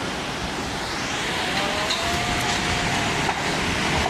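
Steady rushing noise of floodwater running through city streets.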